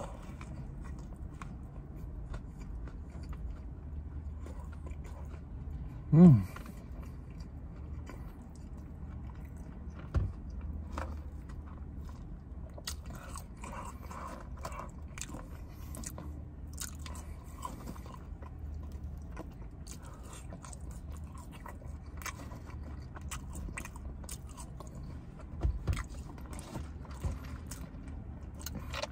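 A man biting and chewing McDonald's food, a sandwich and fries, close to the microphone. From about halfway on there are frequent small crunches and clicks. About six seconds in comes one loud, falling 'mm' of enjoyment.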